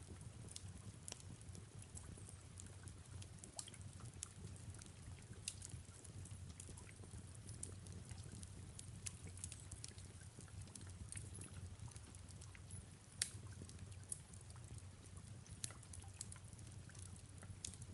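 Faint fireplace crackle: irregular small pops and snaps over a low, steady rumble, with a soft rain hiss. One snap, about two-thirds of the way through, is louder than the rest.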